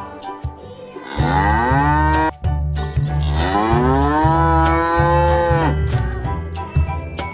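Cow mooing: two long calls that rise in pitch and then hold, over background music with a steady low beat.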